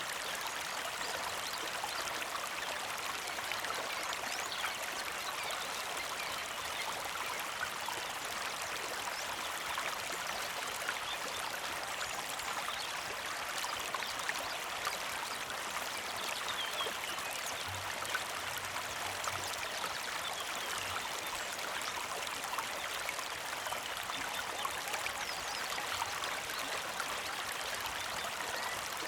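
Small creek flowing steadily over rocks, a continuous trickling and splashing of water.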